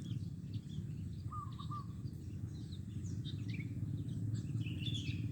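Zebra dove (perkutut) cooing a short run of about three notes about a second in, with small birds chirping and a steady low hum in the background.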